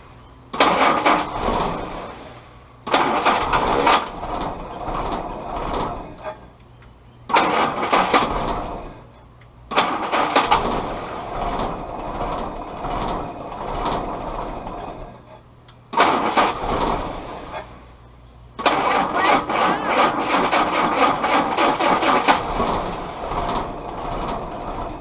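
Willys L134 Go Devil four-cylinder flathead engine catching and firing in uneven bursts, about six times, each starting sharply and fading away over a few seconds. It is not yet running consistently while its ignition timing is being adjusted.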